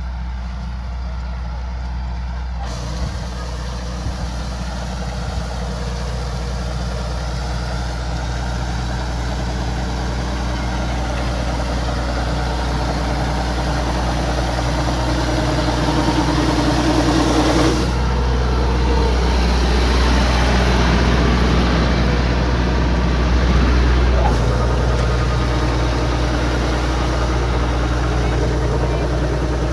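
Kubota DC-105X combine harvester running steadily, slowly growing louder, with a higher tone that builds and then cuts off sharply about eighteen seconds in.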